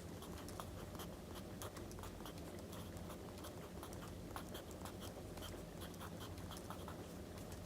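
Crackling wood fire, with irregular small pops and snaps over a low steady rumble, mixed with the scratch of writing on paper.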